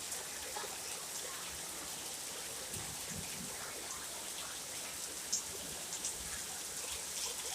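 Heavy rain pouring down, a steady hiss with scattered drops ticking on nearby surfaces.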